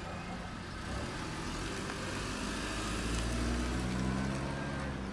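A car engine running, its low hum growing louder and rising slightly in pitch a couple of seconds in as the car gets under way.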